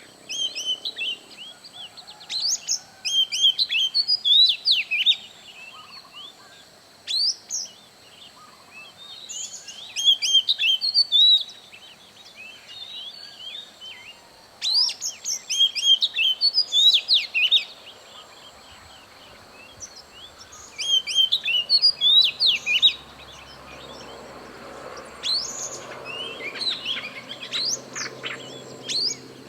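A songbird singing in short phrases of quick, high chirping notes, a phrase every few seconds. Two steady high-pitched tones run beneath the song.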